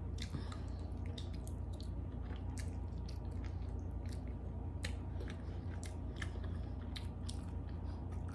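A person chewing and biting pieces of pork souse, with many short scattered mouth clicks and smacks over a steady low hum.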